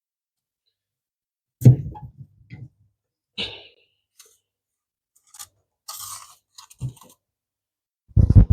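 Food being handled and put into a fridge: a thud about a second and a half in, then scattered light knocks and brief crinkling of plastic, and a quick run of heavier thumps near the end.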